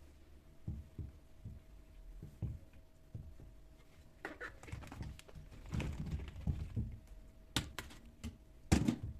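Household objects being handled by hand. Scattered soft thuds come first, then a busier run of knocks and rustling from about four seconds in, then a few sharp clicks near the end, the loudest just before it closes.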